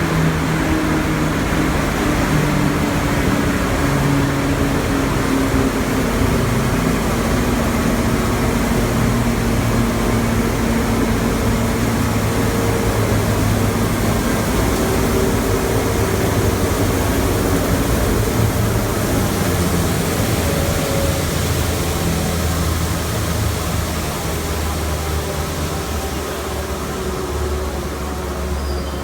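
A 55 kW wood hammer crusher running and grinding wood veneer into sawdust. It makes a dense, steady mechanical noise, with low hum tones that slowly drift down and up in pitch, and it grows a little quieter near the end.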